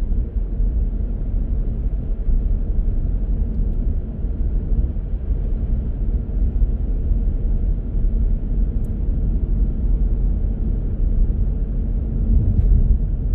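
A car driving steadily, its engine and tyre noise a constant low rumble.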